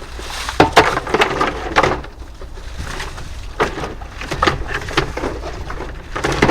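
Irregular knocks and clatters of loose debris being handled and cleared out of the way, with a steady low hum underneath.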